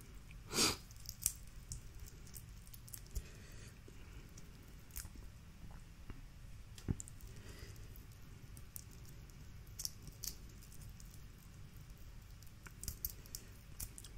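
A person eating a seafood boil close to the microphone: chewing with scattered sharp clicks and crackles of food being handled. The loudest click comes about half a second in.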